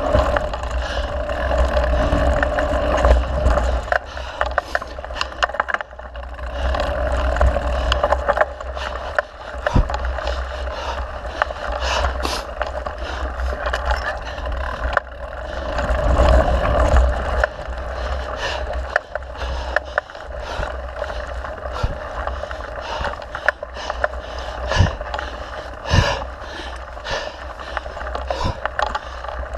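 Mountain bike being ridden over a dirt trail: tyres scraping and rolling with a steady rumble of wind on the microphone, broken by frequent sharp clicks and rattles from the bike as it goes over bumps.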